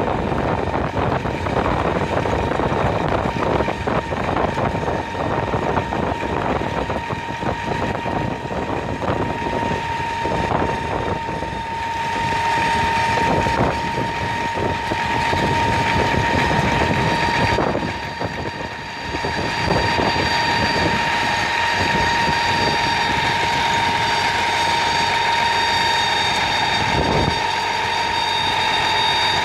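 Garbage truck running, with rattles and knocks over the engine and a steady high whine that grows stronger about halfway through.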